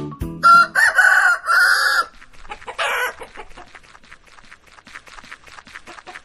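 Rooster crowing once, a loud drawn-out cock-a-doodle-doo, followed by a run of quick chicken clucks.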